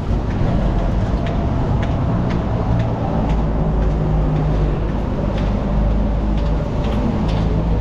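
Steady low rumble of motor vehicles in city traffic, with faint light ticks about once a second over it.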